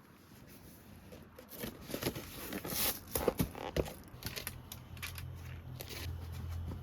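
Irregular crinkling and tearing handling noises, like packaging being opened, loudest in the middle. Then a steady low hum comes in about four seconds in.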